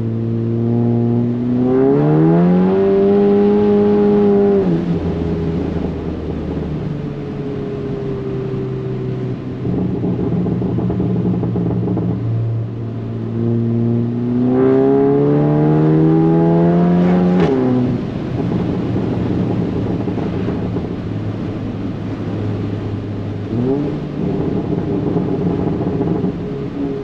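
Volkswagen MK7 GTI's turbocharged 2.0-litre four-cylinder, with a Stage 2 tune and a 3-inch catless turbo-back exhaust, heard inside the cabin: two hard pulls, about two seconds in and again about thirteen seconds in, the engine note climbing steeply and then dropping as each pull ends. The second pull ends with a sharp crack, and the engine runs steadily at lower revs between the pulls and after them.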